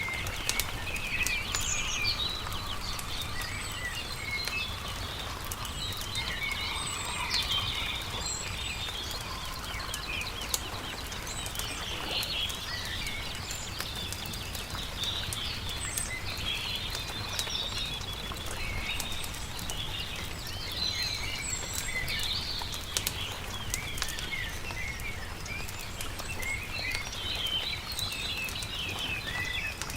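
Many small birds singing and chirping, mixed with a campfire crackling in frequent sharp pops and clicks, over a low steady rumble.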